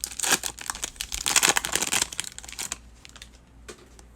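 Crinkling and tearing of a trading card pack's wrapper as it is handled and opened, dense for about the first three seconds, then dying down.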